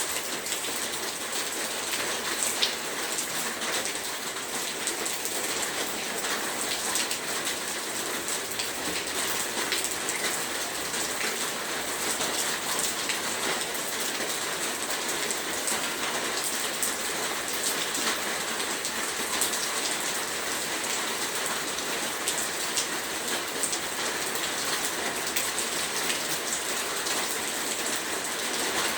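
Heavy rain falling steadily, a dense hiss with many fine drop ticks and no let-up.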